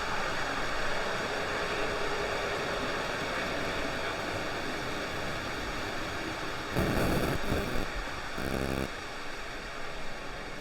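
Steady hiss-like noise laced with faint steady electronic whine tones, the erratic noise the uploader blames on the camera getting wet in the rain. About seven seconds in there is a short louder rustle, and about a second later a brief low buzzing tone.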